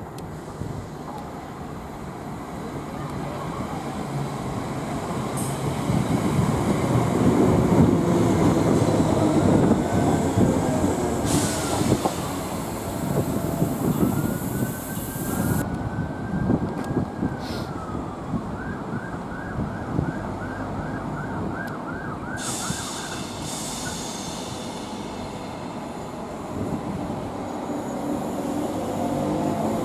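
A Class 321 electric multiple unit runs along the platform and away, its rumble of wheels and motors building to its loudest about ten seconds in and then fading. Partway through, a siren wails up and down and then yelps in quick repeated whoops. Near the end a second Class 321 approaches, its sound rising again.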